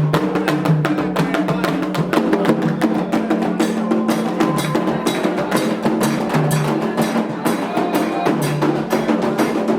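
Candomblé ritual drumming: atabaque hand drums playing a fast, dense rhythm of sharp strokes, with a few held low notes underneath.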